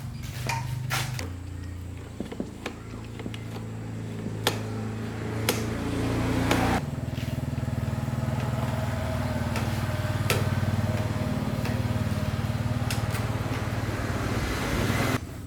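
Small motorcycle engine running steadily, its low hum shifting in pitch about a second in and again near seven seconds, with a few sharp clicks over it.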